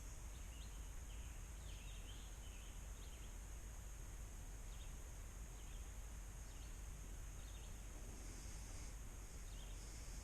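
Faint outdoor ambience: scattered short bird chirps over a steady high hiss and a low rumble.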